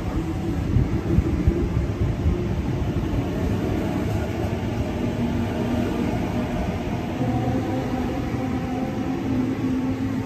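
Sydney Trains double-deck electric suburban train moving past along the platform: a steady rumble of wheels on rail with a faint hum from the train.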